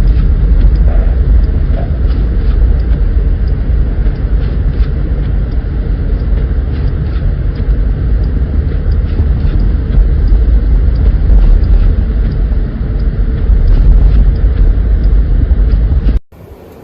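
Strong blizzard wind buffeting the microphone: a loud, steady low rumble with no let-up, which cuts off suddenly near the end.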